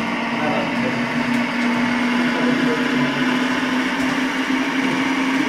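Model railway camera car running along the track: a small electric motor's steady hum over the rolling rumble of its wheels on the rails.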